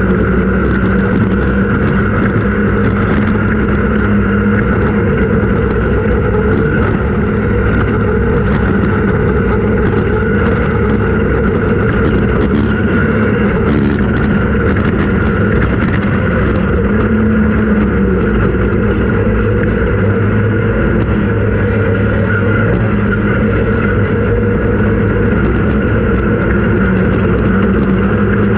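Off-road race vehicle's engine running hard at fairly steady revs, with a dense rush of driving noise underneath.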